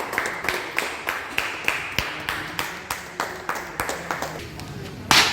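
A quick, even series of sharp clicks or claps, about four a second, then one loud, short burst of noise near the end.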